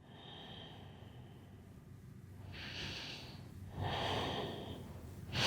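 A woman's slow, audible breaths through the nose, about three of them, as she holds a yoga forward fold.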